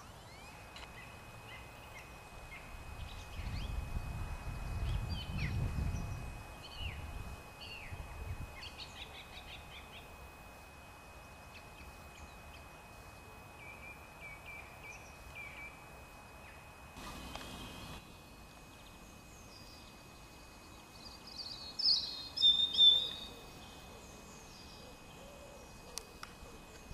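Small birds chirping and singing on and off, with a louder burst of song about 22 seconds in; a low rumble a few seconds in.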